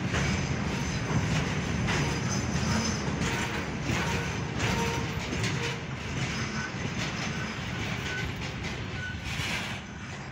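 Freight train of flat wagons loaded with tank containers rolling past: steady wheel rumble and rail clatter, with a few short faint squeals. It eases off slightly near the end.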